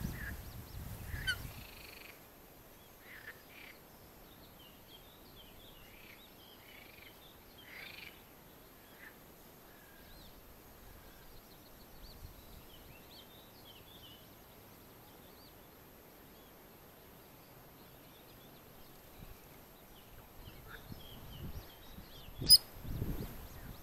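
Faint, scattered high peeping and chirping of birds on the water's edge, in short clusters. A brief low rumble at the start and a single sharp click near the end.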